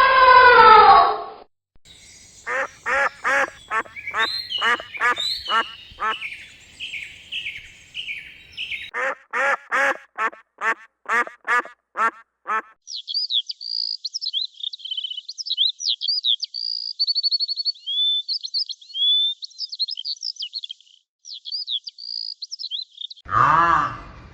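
Ducks quacking in a quick, steady series of short calls, about two a second, for roughly ten seconds, then high-pitched bird chirping and trilling for most of the rest.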